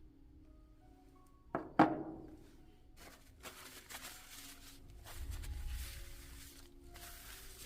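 Two sharp knocks about two seconds in, the second louder and ringing briefly, like a hard part or tool set down on a bench. They are followed by several seconds of rubbing and handling noise, over soft background music.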